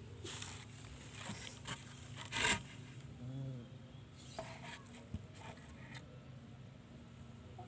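Rubbing and scraping noises in a small room, a series of rustles with one louder scrape about two and a half seconds in.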